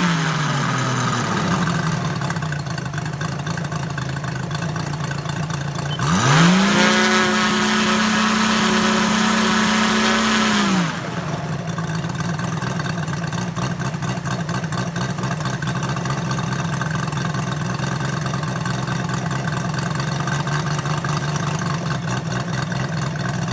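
Moki 257 250cc seven-cylinder radial gas engine running: it settles from a fast speed to a steady idle in the first couple of seconds, then about six seconds in it is revved up sharply, held high for about five seconds, and throttled back to idle near eleven seconds.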